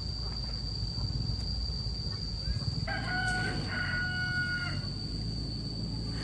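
A rooster crows once, one long call of about two seconds roughly halfway through, over a steady low rumble.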